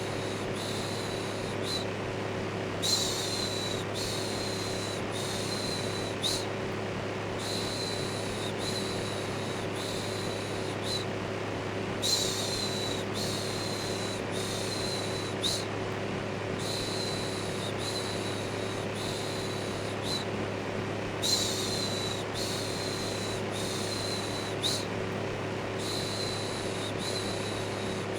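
Electric fan running with a steady hum, under a repeated shushing 'shhh' of about one a second that comes in a looping pattern, with a stronger shush roughly every nine seconds.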